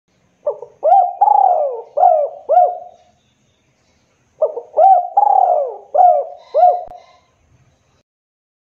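Spotted dove (tekukur) cooing: two phrases of about five coos each, the second starting about four seconds in.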